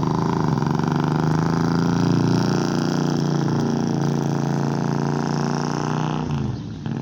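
Morgan three-wheeler's engine running loudly through its large side-mounted exhaust as it drives off, dropping away about six seconds in.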